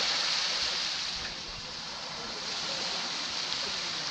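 Small Caribbean sea waves washing onto a sand beach close by, the wash easing off about a second and a half in before the next one builds.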